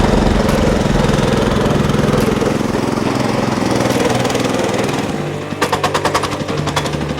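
Walk-behind tractor engine running steadily; about five and a half seconds in its note drops and it turns to a distinct rapid knocking, about seven strokes a second.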